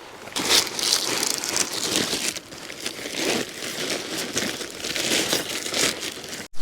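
Plastic bag crinkling and rustling as it is handled, in irregular bursts, likely a rubbish bag being gathered up. It cuts off abruptly just before the end.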